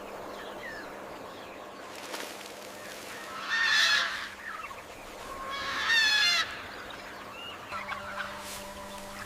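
A large bird giving two loud, harsh calls, one about three and a half seconds in and a wavering one about six seconds in, with a few faint chirps and a low steady hum between them.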